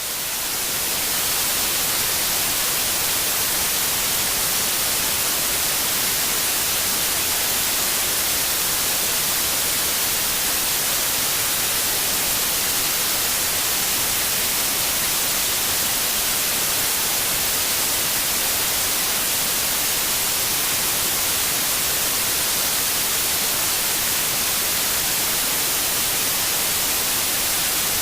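White noise like the static of a television with no signal: a steady, even hiss, brightest in the treble, that fades up to full level over the first second or so.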